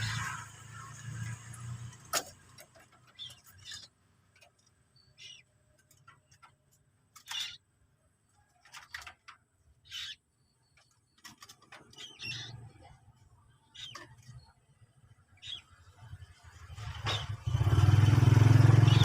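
Short, scattered high bird chirps, about one every second, over quiet road traffic. A motor vehicle passes loudly near the end.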